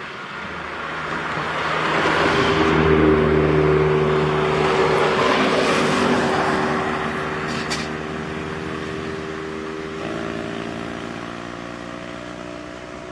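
A truck's engine driving past, growing louder to a peak about three seconds in and then fading slowly as it moves away, with tyre and road noise under the engine note.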